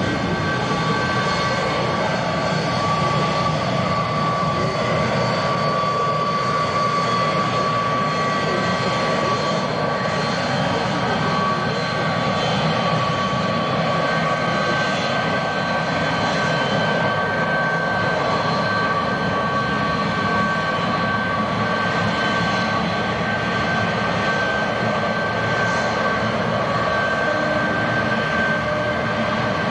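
Jet airliner engines running steadily: a constant roar with high, even whining tones over it.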